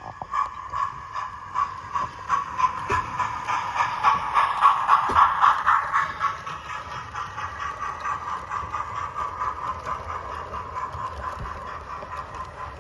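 Model train running past: the electric motor whines steadily and the wheels click rapidly and evenly over the rail joints. It grows louder to a peak about five seconds in, then fades as it moves away.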